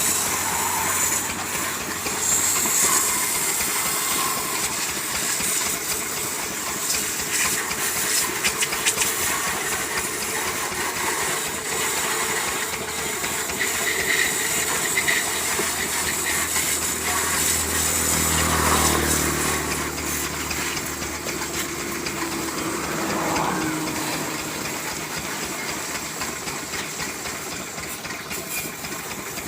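Water jet spraying on a tractor with a steady hiss as it is washed down. About two-thirds of the way through, a low engine-like rumble swells and fades.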